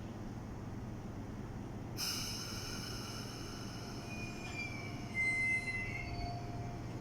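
Hong Kong MTR metro train's steel wheels squealing on the rails as it pulls out, over a steady low rumble. Several shrill tones start suddenly about two seconds in, waver in pitch, and peak in a loud squeal around five seconds in.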